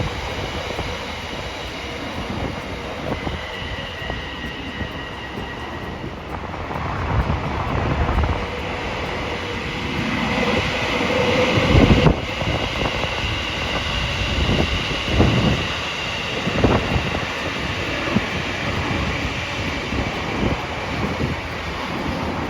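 Train running past on the line: a steady rumble with repeated knocks of wheels over rail joints, and high steady tones above it that grow stronger about halfway through.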